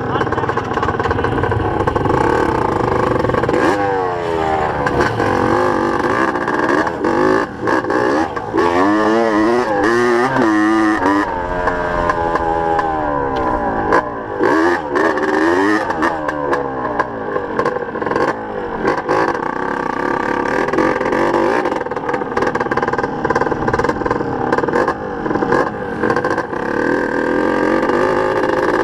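Small dirt-bike engines running hard, a Yamaha DT175 and pit bikes. The engine notes repeatedly climb and drop as the bikes are revved and shifted, and in the middle stretch two notes at different pitches overlap and cross.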